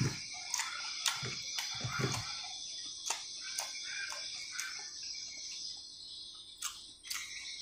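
Close-up eating sounds: a man chewing, with frequent sharp wet mouth clicks and smacks and a few soft low thumps, over a steady faint high hiss.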